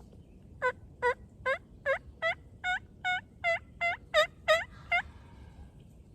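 Turkey yelping: a run of about a dozen evenly spaced yelps, roughly two and a half a second, growing louder toward the end.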